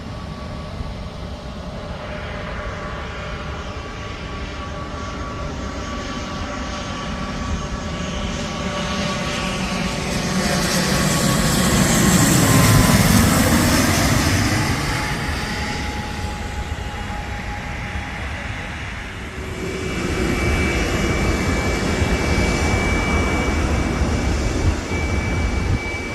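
Jet airliner on landing approach passing low overhead. Its engine whine and roar build to a peak about halfway through, with the pitch dropping as it goes by. A second swell of engine noise follows near the end, carrying a steady high whine.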